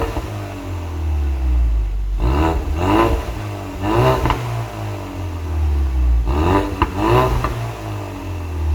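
Ford Mustang 2.3 EcoBoost's turbocharged four-cylinder engine heard through a custom valved exhaust with aftermarket mufflers. It idles with a deep rumble and is blipped five times in short revs, twice in quick pairs, dropping back to idle after each.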